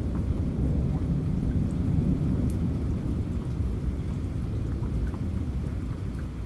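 Rolling thunder rumbling low under steady rain. It swells over the first couple of seconds and then slowly fades, with a few scattered raindrop ticks.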